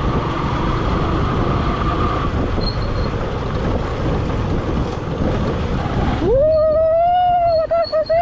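Rushing wind and road noise from a moving motorbike, then about six seconds in the engine revs up and holds a steady high whine.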